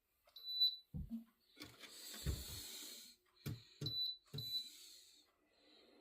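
Three short, high electronic beeps, one near the start and two close together about four seconds in. They come among low knocks of handling and a brief rustling hiss.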